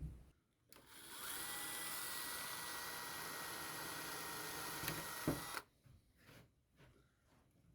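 Power drill running steadily for about five seconds on the timber of a wooden gate, with a high whine that rises as it spins up, then stopping after a knock. A few faint knocks and ticks follow.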